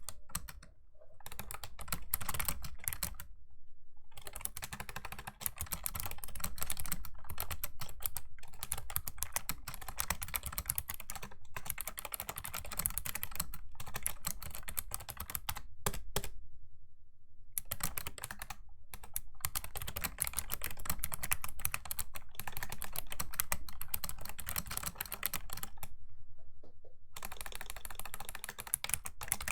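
Fast, continuous typing on a Razer Ornata Chroma V2 mecha-membrane keyboard, a dense run of clicky keystrokes broken by a few brief pauses, the longest about two thirds of the way through.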